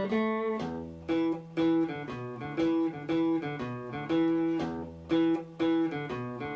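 Guitar playing a single-note blues riff: plucked notes in a steady, even rhythm.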